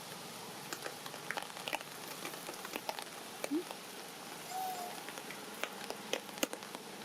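Rain falling, a steady hiss with scattered drops tapping sharply on nearby surfaces. Two short faint calls come through, one about three and a half seconds in and one a second later.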